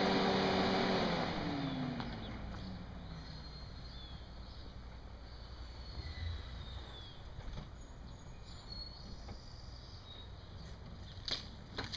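1987 Mazda RX-7's turbocharged 13B rotary engine shutting off, its tone holding for about a second, then sliding down and dying away. After that there is only faint outdoor background with birds chirping, and two sharp clicks near the end.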